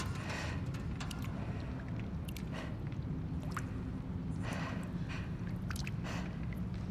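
Abandoned-building ambience: a steady low rumble, with scattered sharp ticks and short hissing rustles coming and going throughout.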